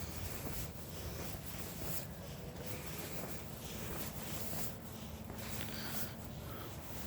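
Footsteps crunching through dry fallen leaves at a walking pace.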